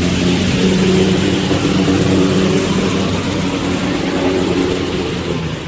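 A vehicle engine running steadily under a loud, even hiss, easing off slightly near the end.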